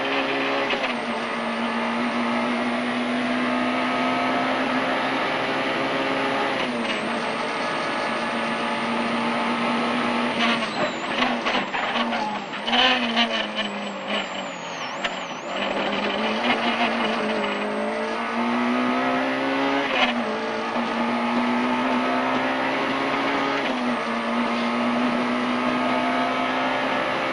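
Peugeot 106 Rallye's 1.3-litre four-cylinder engine running hard at high revs, the pitch dropping sharply at each gear change. About ten seconds in the revs fall away and waver, with uneven clicking and a little tyre noise through a slow, tight turn, then the engine pulls back up through the gears.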